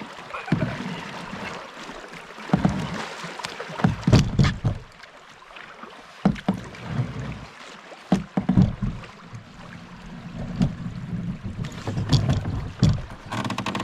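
Choppy water splashing and slapping against a small boat, with irregular splashes and knocks every second or two.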